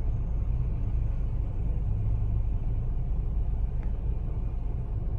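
Steady low rumble heard from inside a moving vehicle.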